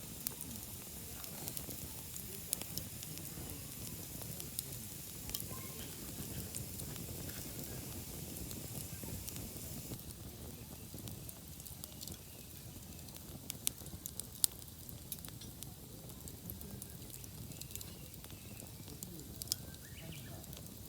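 Wood campfire crackling, with scattered sharp pops, the loudest of them about two-thirds of the way in.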